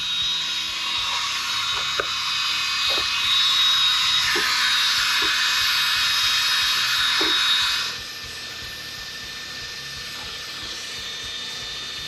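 Power drill running with a high whine, boring relief holes through the steel engine mount pockets of a truck frame to drain trapped water. It stops about eight seconds in.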